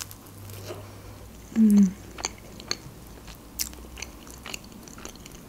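Close-up eating sounds of a person biting into and chewing a rolled lavash snack, with a few sharp mouth clicks scattered through the chewing. About a second and a half in comes a short hummed 'mm' from the eater's voice, the loudest sound.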